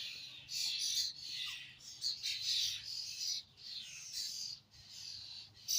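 A flock of birds calling at once: harsh, overlapping squawks and chirps, one after another without a break.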